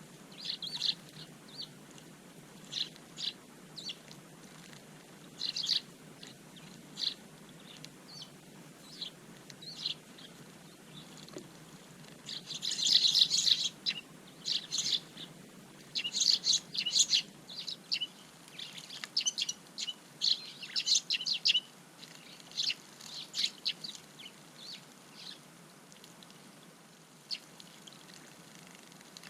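Small garden birds chirping: many short, high chirps at irregular intervals, coming thickest and loudest in the middle stretch.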